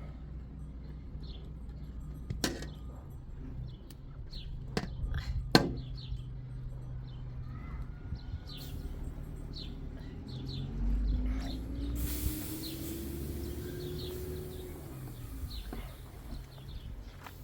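Small birds chirping again and again, with a couple of sharp knocks and a low steady hum; about twelve seconds in, a steady hiss sets in.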